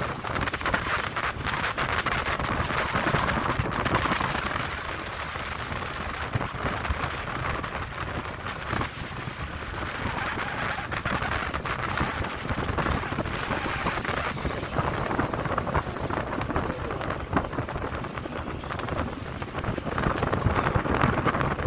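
Sea water rushing and splashing along the hull of a ship under way, with wind buffeting the microphone.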